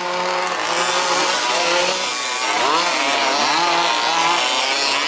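Several 1/5th-scale RC off-road buggies' small two-stroke petrol engines running together, each revving up and dropping back as the buggies accelerate and brake around the track, the pitches overlapping and rising and falling.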